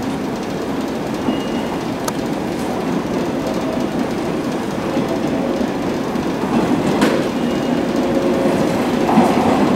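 Electric passenger train rolling in along the track towards the platform, its running noise growing steadily louder as it approaches.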